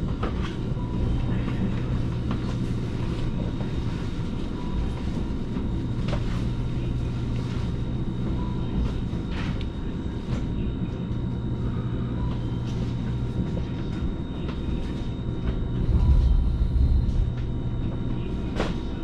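Cabin noise inside a JR Kyushu 885 series limited express train running slowly as it arrives at its terminal station: a steady low rumble and hum with a few short clicks, and the rumble grows louder for a moment about sixteen seconds in.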